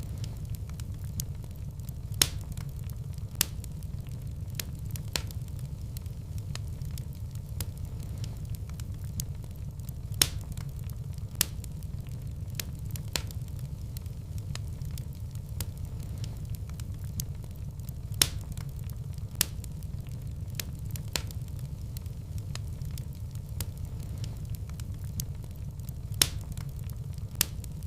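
Wood fire in a fireplace crackling: a steady low rumble of flames with sharp pops and snaps every second or two, a few of them louder.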